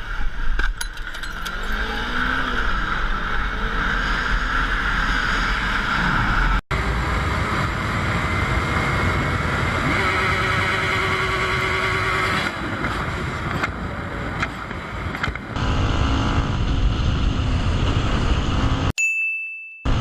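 Vehicle engine and road noise with wind on the microphone, changing abruptly twice where clips are cut together. A short, high electronic beep sounds near the end.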